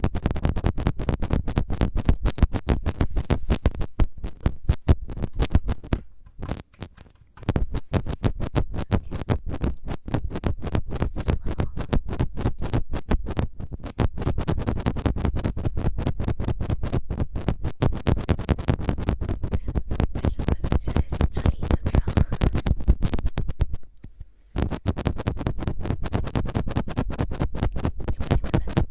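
Rapid scratching strokes right on a microphone, an ASMR trigger, going on steadily with a pause about six seconds in and a short break near the end.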